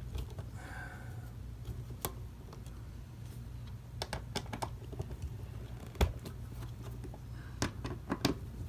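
Scattered sharp clicks and taps of a hand tool working the tight nuts on the brass clock movement as they are loosened, over a low steady hum.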